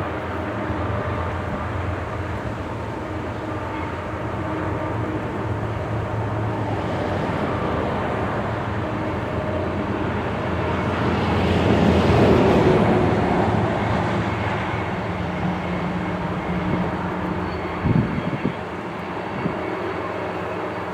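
Steady low diesel rumble of a distant Canadian Pacific freight train's locomotives. A broad rushing swell builds to a peak about midway and fades, and a couple of short knocks come near the end.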